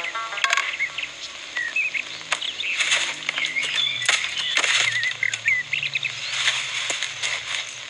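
Birds chirping in short, quick twittering calls, with scattered sharp taps and rustles and a faint low drone underneath, from a film clip's soundtrack.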